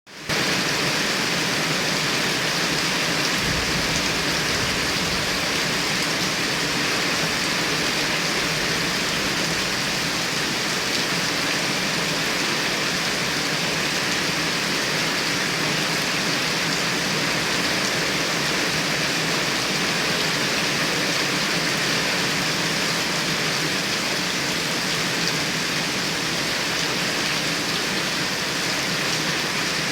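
Heavy rain pouring down steadily, a dense unbroken hiss of rain on surfaces.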